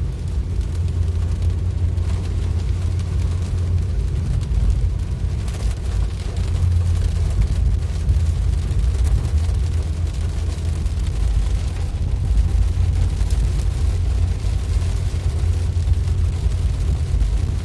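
Steady low rumble of a vehicle driving through heavy rain, with road and wind noise and a faint hiss above it.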